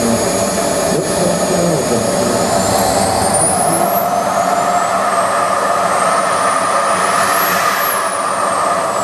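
Model jet turbine of a large radio-controlled Fouga Magister in flight: a steady roar with a high whine that climbs in pitch for several seconds, then drops near the end as the jet passes or the throttle changes.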